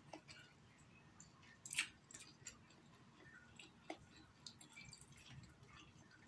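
Faint eating sounds: a person chewing with the mouth closed, with scattered small clicks, the sharpest a little under two seconds in.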